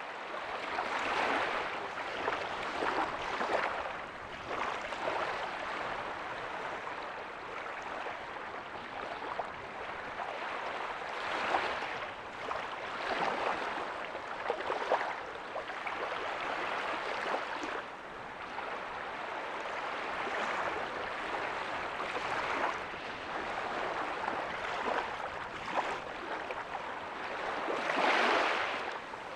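Ocean waves breaking softly on a beach, a steady wash of surf that swells and eases every few seconds, with a bigger wave near the end.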